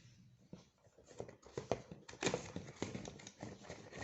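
Toy helicopter's box and packaging being opened and handled: a run of irregular knocks, taps and rustles, faint at first and busier and louder from about a second in.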